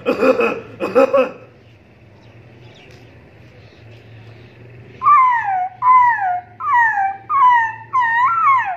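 A person making weird vocal sounds: three short harsh bursts in the first second or so, then, from about five seconds in, five whining yelps in a row, each sliding down in pitch like a dog's whimper.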